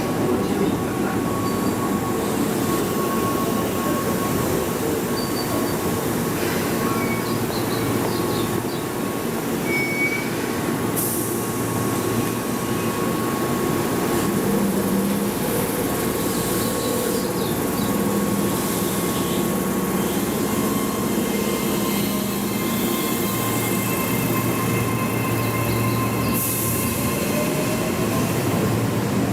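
Keihan 3000 series electric train running, heard from inside the car: a steady rumble of wheels on rail with a low motor hum that shifts now and then, and a thin, faint wheel squeal.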